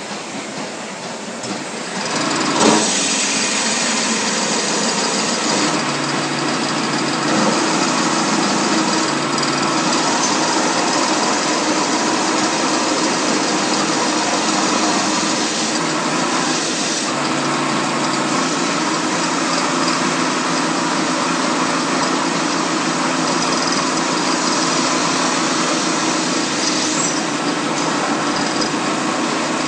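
CNC polygon lathe running: a loud, steady machine noise with a constant hum. It grows louder about two seconds in, with a single sharp click just after.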